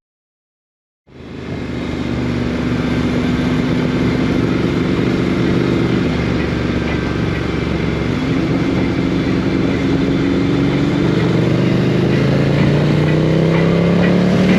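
Silence for about a second, then a motorcycle engine running. Its pitch climbs steadily through the second half as it accelerates.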